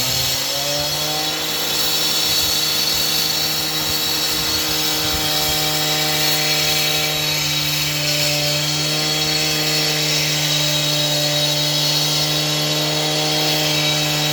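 Power saw running steadily at high speed through a cut, its motor holding one even pitch.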